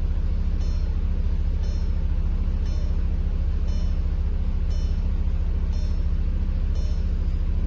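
Audi TT engine idling steadily just after a cold start, a fast even low-pitched pulse. A faint short high chirp repeats about once a second.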